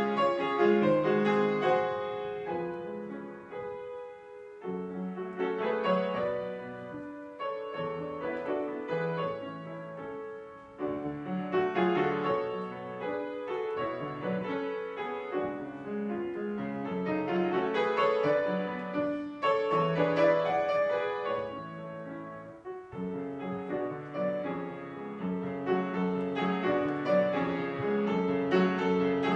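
Piano playing classical music: a continuous flow of notes in phrases that swell and ease off, with brief softenings about four seconds in, about ten seconds in and about two-thirds of the way through.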